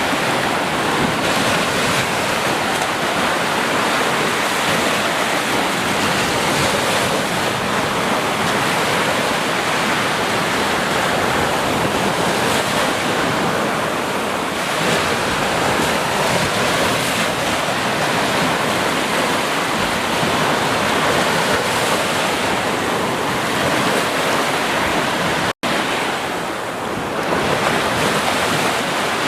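Ocean surf washing onto a beach: a steady rush of waves that swells and eases slowly, broken by a split-second dropout a few seconds before the end.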